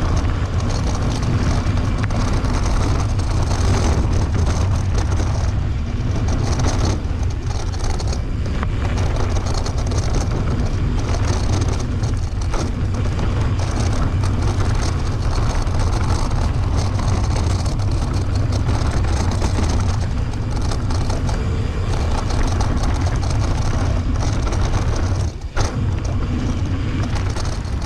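Wind rushing over the camera microphone, with a steady low rumble of mountain bike tyres rolling over dirt trail. There is a brief knock about 25 seconds in.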